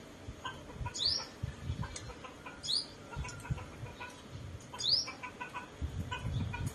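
Small songbird calling: three sharp upward-sweeping chirps, a couple of seconds apart.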